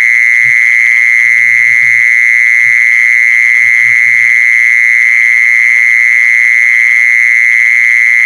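A calling insect's high, steady, unbroken trill, loud and constant in pitch throughout.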